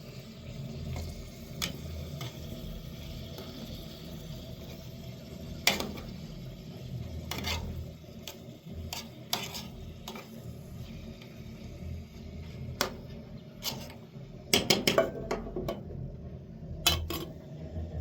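Metal utensils clinking and scraping against pots and dishes during cooking: scattered sharp clinks, with a quick run of them about three-quarters of the way through, over a low steady rumble.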